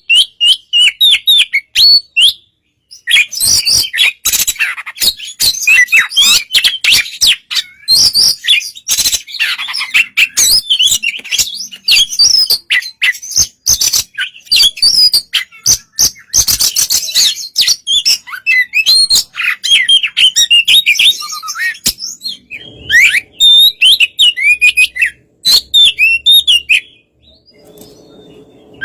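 Oriental magpie-robin (kacer) singing: loud, fast, varied phrases of quick whistled notes mixed with harsh scratchy chatter, running almost without a break, with brief pauses about two and a half seconds in and near the end.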